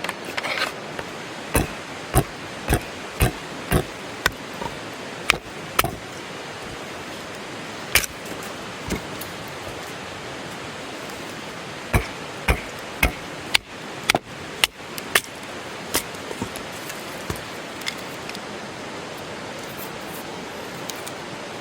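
Wood campfire crackling: sharp, irregular pops over a steady hiss, busiest in the first few seconds and again in the middle.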